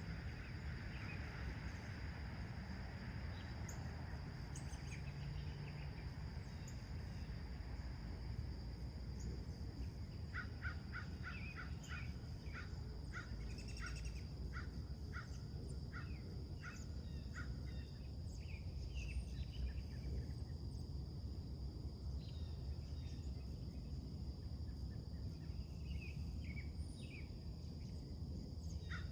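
Wild birds calling in a morning outdoor soundscape: a fast run of repeated short calls starts about ten seconds in and lasts about eight seconds, with scattered calls after. A steady high-pitched hum and a low distant rumble run underneath.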